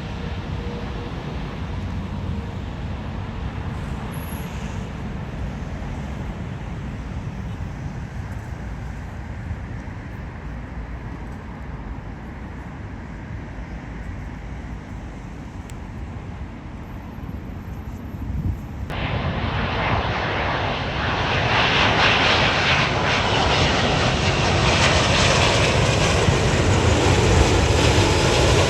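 Jet airliner engines heard as a low rumble that slowly fades, then, about two-thirds of the way in, a much louder jet's engine noise cuts in abruptly and builds for a few seconds to a loud, steady level.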